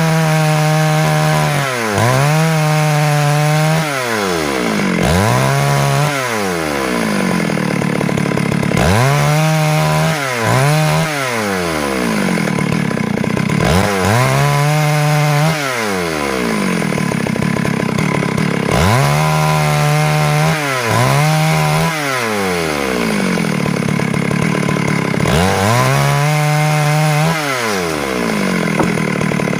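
Stihl MS 382 two-stroke chainsaw sawing wood. The engine speed drops and climbs back up every couple of seconds.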